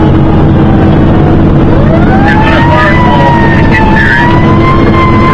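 Fire engine on an emergency response, heard from inside the cab: a loud, steady rumble of engine and road noise. About two seconds in, a siren winds up and then wails slowly up and down.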